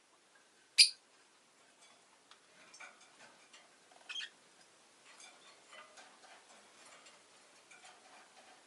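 Rosy-faced lovebird giving one sharp, loud chirp about a second in and a shorter call around four seconds, with faint scattered clicks and ticks in between.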